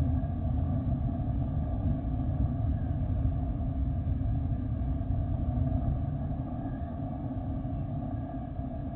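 Jet airliner engines running with a steady rumble and a few held tones above it, easing off slightly near the end.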